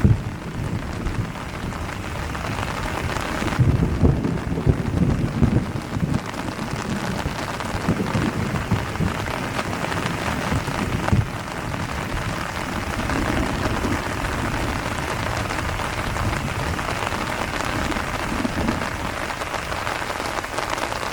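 Steady heavy rain falling, with a few low rumbles about four to six seconds in.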